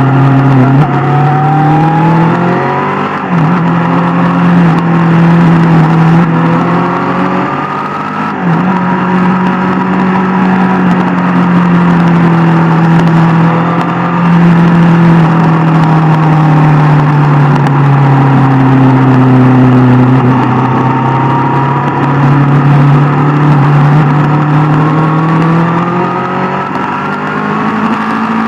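Inline-four superbike engine under way, its pitch climbing and then dropping sharply at upshifts about two and a half, three and eight seconds in. After that it rises and falls gradually with the throttle.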